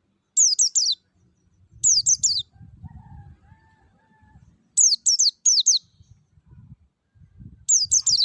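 White-eye (pleci) singing its wild 'ngalas' song: four short bursts of quick, high, downward-sliding notes, three or four notes to a burst, a second or more apart.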